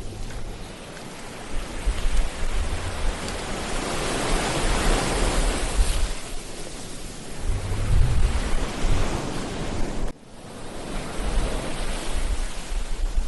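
Ocean surf breaking and washing up a beach, swelling loudest a few seconds in, with wind buffeting the microphone. About ten seconds in, the sound drops away suddenly and then builds again.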